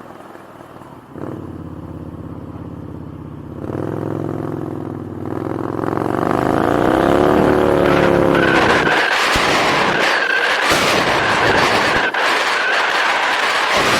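Motorcycle engine pulling away and accelerating. Its note gets louder in two steps, then rises steadily in pitch for a few seconds, and from about nine seconds in loud wind noise on the microphone drowns it out as speed builds.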